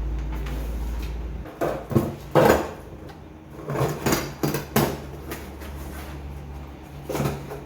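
Packaged shopping items being handled and set down on a surface: a scatter of knocks and short rustles, the loudest a couple of seconds in.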